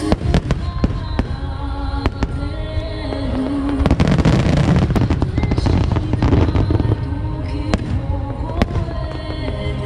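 Aerial firework shells bursting in a rapid series of sharp bangs, with a dense stretch of bangs and crackle about four seconds in that lasts a couple of seconds. Music plays underneath.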